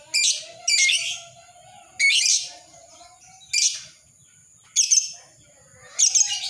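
Lovebird calling in a series of about six loud, harsh, high chirps, spaced irregularly with short pauses between them.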